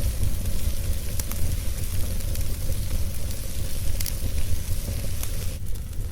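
Wood fire crackling and hissing, with a few sharp pops scattered through, over a steady low rumble. The hiss thins a little near the end.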